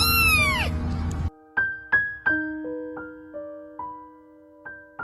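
A cat meows once, loudly, its pitch rising then falling, in the first second or so, over soft piano music. The piano goes on alone afterwards, one note at a time.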